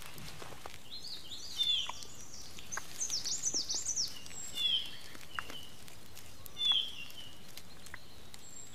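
Forest birds calling over a steady background hiss: short high chirps and sweeping whistled notes, with a quick run of them about three seconds in and a few single calls after.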